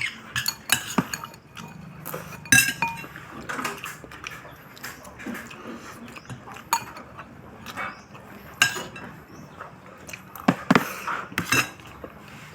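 Cutlery clinking against plates and bowls during a meal: short, irregular clinks, several louder ones about two and a half seconds in, near nine seconds and around ten and a half to eleven and a half seconds.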